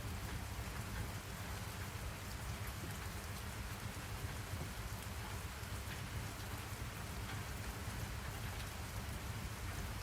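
Steady rain falling: an even hiss with scattered faint drop ticks over a low rumble.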